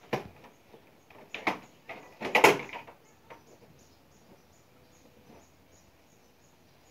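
A few knocks and rattles of something hard being handled, the loudest about two and a half seconds in, then only a faint background.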